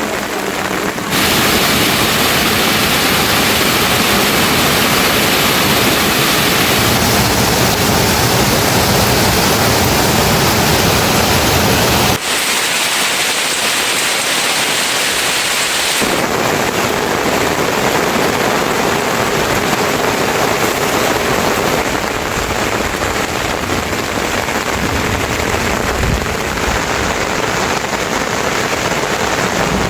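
Heavy rain falling, a loud steady hiss whose character changes abruptly about a second in, about twelve seconds in and again about sixteen seconds in.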